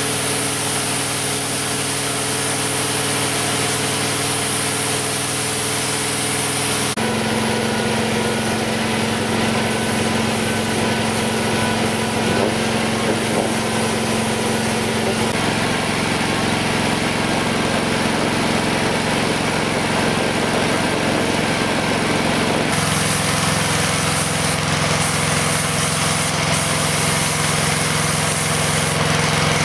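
Spray-painting equipment running: a compressor's steady motor hum under the constant hiss of air from a spray gun. The pitch of the hum changes abruptly about three times.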